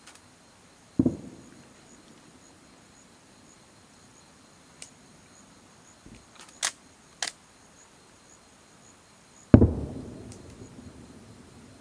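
Two aerial fireworks shells bursting at a distance, about eight and a half seconds apart, each a low boom followed by a rolling rumble; the second is the louder. A few sharp clicks fall between them.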